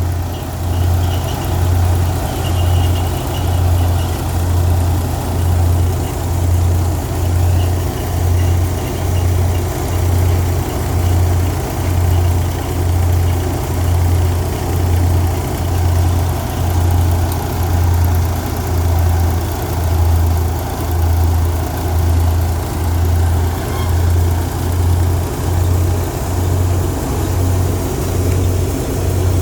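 Engine-driven threshing machine running on pearl millet, a steady low hum that swells about once a second.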